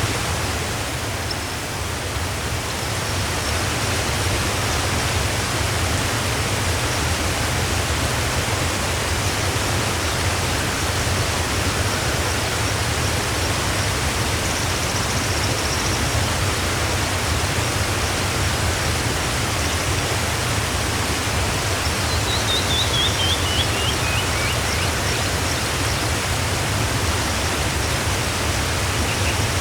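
Waterfall rushing steadily. Faint high bird calls come and go over it, and about three-quarters of the way through a bird gives a quick series of chirps falling in pitch.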